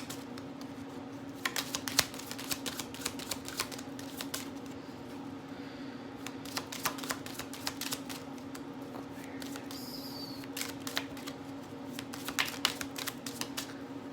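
A deck of tarot cards being shuffled by hand: irregular light clicks and flicks of the cards, over a steady low hum.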